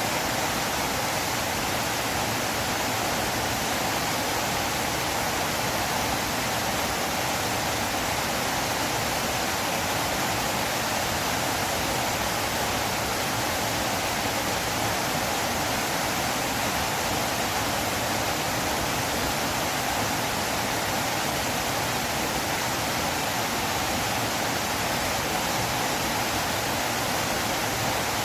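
River water flowing, a steady, unchanging rush.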